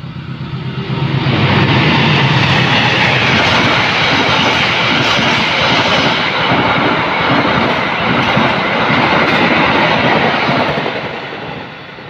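KAI passenger train running through the station at speed. The diesel locomotive's engine is heard for the first second or so, then the coaches rush past with the clatter of wheels over rail joints. The sound dies down near the end.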